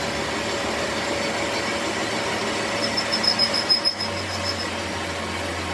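A machine running with a steady hum. About three seconds in, a brief run of rapid high-pitched ticking.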